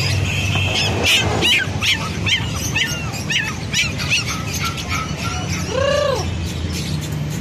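Birds chirping: a quick run of short, high chirps, about two to three a second, then one longer rising-and-falling call, over a steady low hum.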